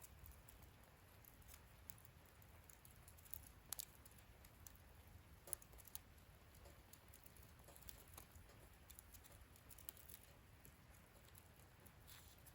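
Wood fire burning in a fire-pit stand, crackling faintly with scattered small ticks and pops, and two sharper pops near the middle.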